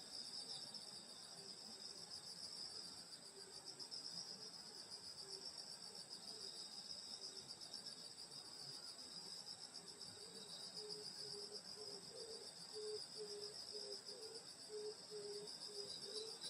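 A chorus of night-singing grass insects, crickets among them, making a steady, finely pulsing high trill. About two-thirds of the way through, a low note joins in, repeating evenly about twice a second.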